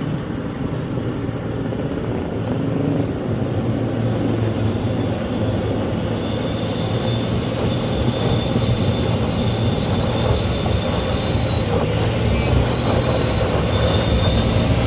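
Heavy truck's diesel engine labouring up a steep grade, a steady low drone, with a thin high squeal coming in about six seconds in and growing stronger toward the end.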